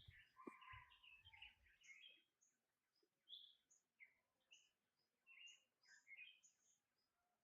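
Small birds chirping faintly in short, scattered calls, with a few low thumps in the first couple of seconds.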